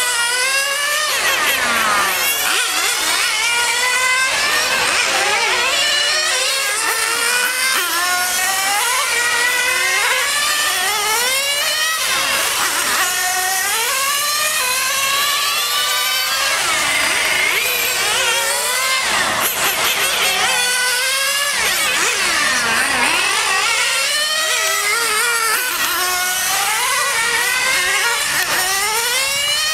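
Small high-revving Alpha model engine repeatedly accelerating and easing off, its whining pitch climbing and dropping back every second or two.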